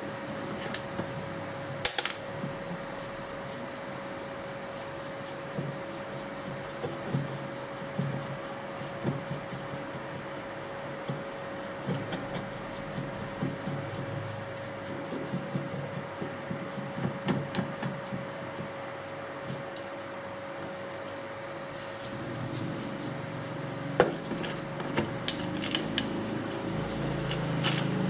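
Hands working on a disassembled electric drill: irregular scraping, rubbing and small clicks of plastic and metal parts, with a couple of sharper clicks, over a faint steady hum.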